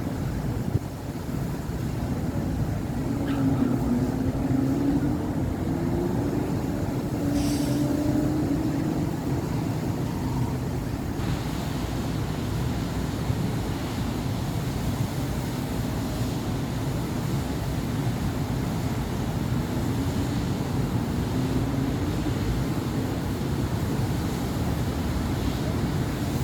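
City avenue traffic: a continuous rumble of car and bus engines and tyres. Passing engines rise and fall in pitch around three to nine seconds in and again near twenty seconds, with a brief high hiss about seven seconds in.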